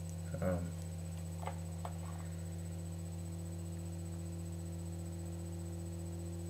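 A steady low electrical hum, with a short vocal sound about half a second in and a couple of faint clicks soon after.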